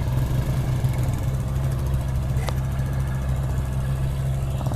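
Truck engine idling steadily with an even low drone, and a light click about two and a half seconds in.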